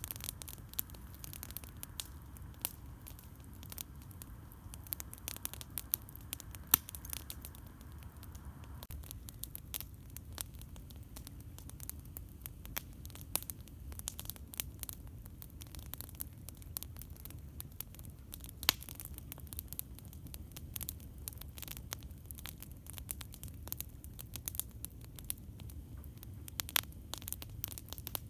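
Campfire crackling: a steady stream of sharp pops and snaps, with a louder pop about seven seconds in and another around eighteen seconds, over a low steady rumble.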